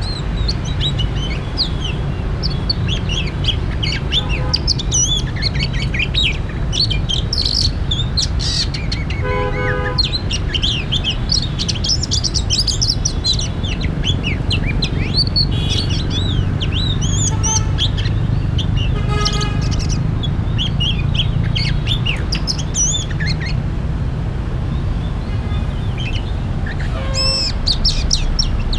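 Oriental magpie-robin singing a long, varied run of quick whistled phrases, with a harsher buzzy call twice, about ten and nineteen seconds in, over a steady low rumble.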